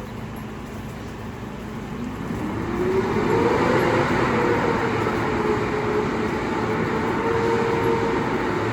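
Garbage truck engine running, then revving up about two seconds in, its pitch climbing for a second or so and then holding at a steady, higher speed.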